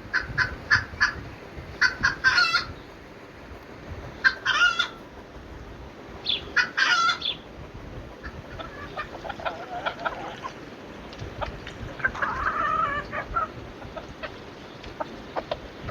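Chickens clucking: clusters of short, sharp calls in quick groups, with a longer drawn-out call about twelve seconds in.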